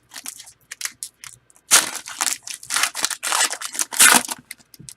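Foil trading-card pack wrappers being pulled and torn open by hand, crinkling in irregular bursts; the loudest rips come about two seconds in and again around three to four seconds in.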